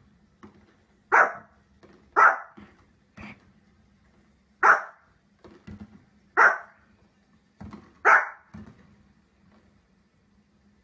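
A dog barking in single sharp barks one to two seconds apart, about half a dozen in all, a few of them fainter than the rest.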